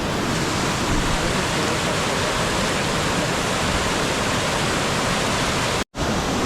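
Man-made waterfall on the uMguza river, water rushing and splashing steadily over the drop. The sound cuts out for an instant near the end.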